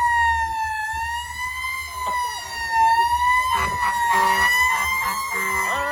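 Fire truck siren sounding one long, steady wail that wavers slightly in pitch, with a low rumble underneath.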